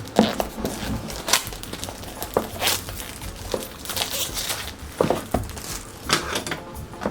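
An earbuds retail box and its cardboard packaging being handled and opened: scattered taps, small knocks and rustling scrapes.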